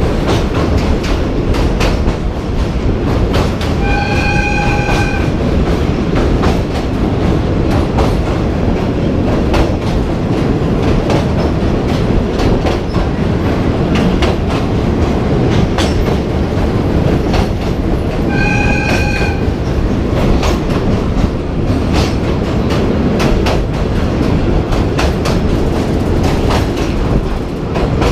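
Passenger train running, a steady loud rumble with the wheels clicking over rail joints. Twice, about four seconds in and again some fourteen seconds later, a brief pitched tone sounds for about a second.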